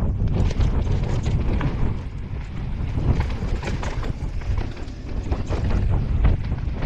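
A mountain bike running down a dirt trail: wind buffeting the camera microphone with a steady low rumble, and the bike rattling and clattering over rough ground throughout.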